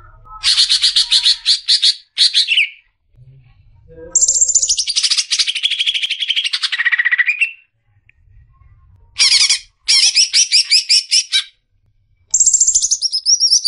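Green leafbird (cucak ijo) singing in loud, rapid phrases of high chattering notes, four or five phrases separated by short pauses. The longest phrase, in the middle, slides steadily down in pitch.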